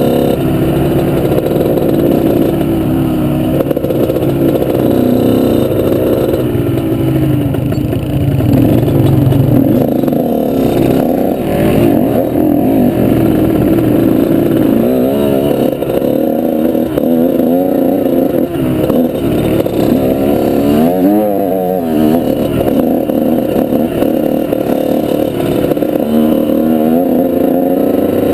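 Off-road vehicle engine running hard under load, its pitch rising and falling repeatedly as the throttle opens and closes.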